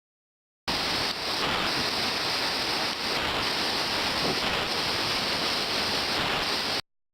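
Waterfall: steady rushing of falling water that starts abruptly and cuts off suddenly about six seconds later.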